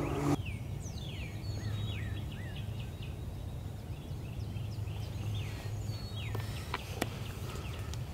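Small songbirds chirping outdoors, short falling notes repeated again and again over a low steady rumble. A running vehicle engine cuts off abruptly in the first half second, and there is a single sharp click about seven seconds in.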